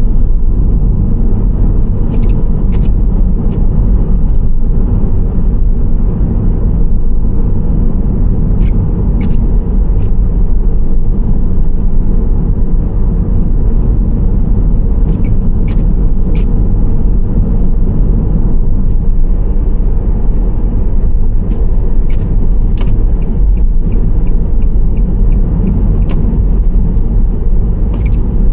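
Nissan Serena C25 minivan driving at speed, its road and engine noise a steady low rumble, with sharp clicks now and then, often in quick threes. A light, even ticking runs for a few seconds near the end.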